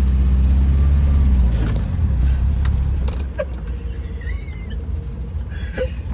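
Engine of a 1966 Ford car running, its note changing about a second and a half in as the car pulls away, with a few light clicks.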